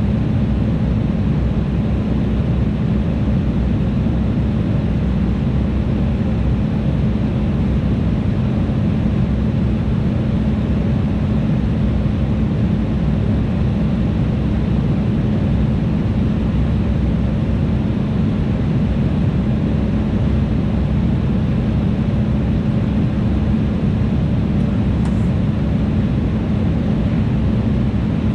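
Embraer E175 airliner in flight, heard inside the cabin: a steady rush of turbofan engine and airflow noise with a constant low hum.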